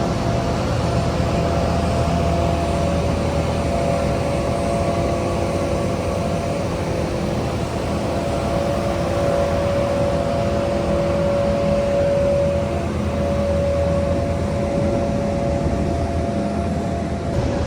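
Aircraft engine noise at an airshow: a steady rumble with a held whine in several tones that shift slightly in pitch.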